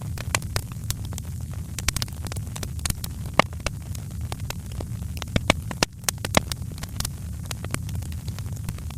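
Wood fire crackling in a fireplace, with frequent sharp irregular pops over a steady low rumble.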